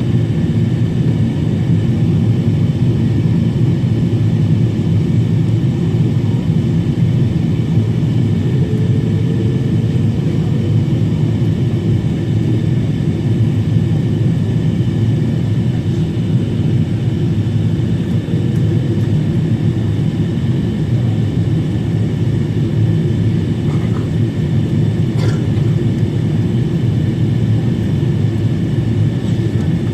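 Boeing 777-300 cabin noise during descent: a steady, dense rumble of engines and airflow with faint steady whining tones above it. A light click sounds once near the end.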